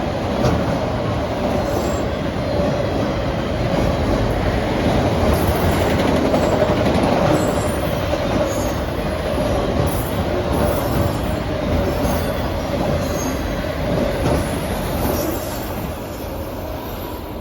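Freight cars of a Norfolk Southern manifest train rolling past, a continuous rumble of steel wheels on rail with short, high wheel squeals here and there. The sound eases slightly near the end.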